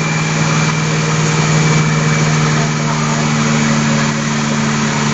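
An engine or motor running steadily, with a constant low hum and a hiss.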